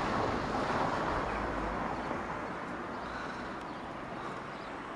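Outdoor background noise, like passing road traffic, with a low rumble that fades away after about two seconds.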